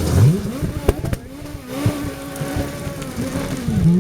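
Rally car engine lifting off and then accelerating hard, its note climbing back up and holding high with a brief dip near the end. A few sharp cracks come about a second in and again near two seconds.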